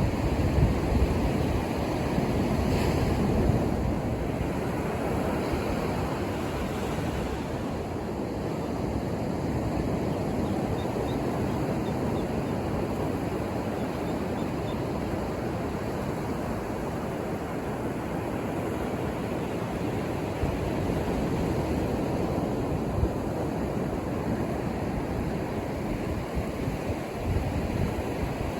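Ocean surf: waves breaking and washing up the shore in a continuous rush, a little louder in the first few seconds, with some wind on the microphone.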